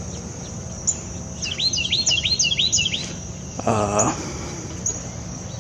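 A songbird sings a quick phrase of five or six repeated slurred notes, starting about a second and a half in and lasting about a second and a half, with a few thin high chips scattered around it. Under it runs a steady, high-pitched insect drone.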